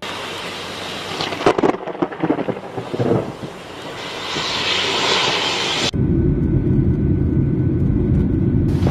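Thunder from a close lightning strike: a rushing noise with a burst of sharp crackling claps between about one and three seconds in, then an abrupt cut to a deep, steady rumble.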